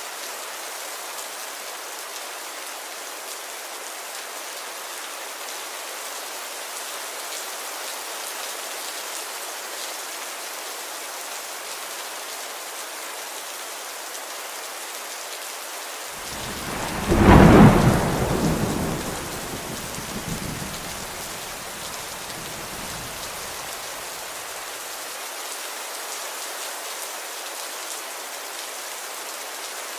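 Steady rain hissing. A little past halfway a loud thunderclap breaks in suddenly and rumbles away over several seconds.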